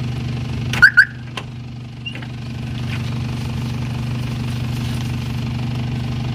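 A car engine idling steadily. About a second in, two short, loud, high-pitched beeps sound in quick succession.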